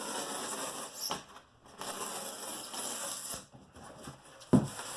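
A knife cutting across a 1-inch rigid foam insulation board in two long scratchy strokes and a shorter, fainter one, followed by a sharp knock near the end.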